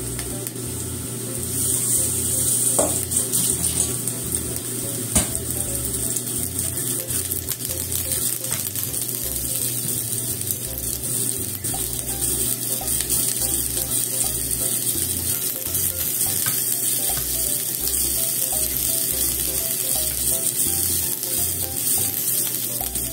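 Shimeji mushrooms sizzling in hot olive oil in a frying pan, the sizzle growing louder about a second and a half in. A few sharp clicks sound over it.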